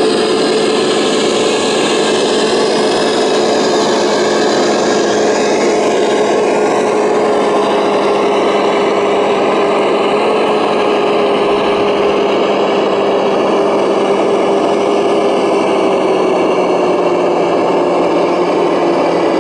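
Electric drive motor and gearbox of a radio-controlled truck whining steadily under load, the whine dropping a little in pitch near the end.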